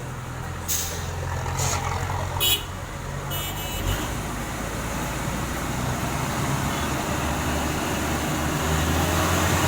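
Heavy truck engine running steadily, growing louder toward the end, with a few short hisses in the first three seconds and a brief high tone about three and a half seconds in.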